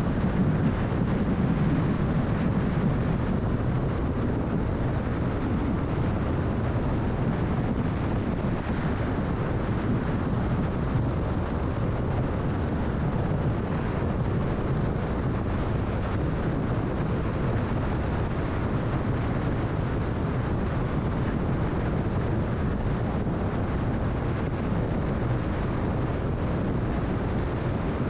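Car driving at freeway speed: a steady, low noise of tyres on the road and rushing wind, with no change in it.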